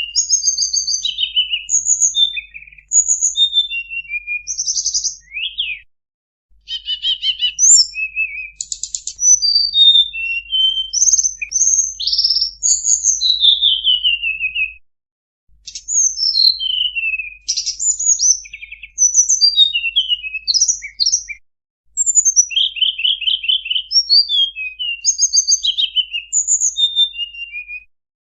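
Recorded song of the songbird known to Indonesian bird keepers as tledekan bambu, played as a lure call. Fast, varied high-pitched chirps, trills and falling whistled notes come in runs of several seconds, each broken off by a brief dead silence where the recording loops.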